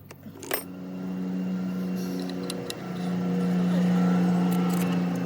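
A motor running with a steady hum, breaking off briefly about halfway and then running on louder, with a few sharp metallic clinks.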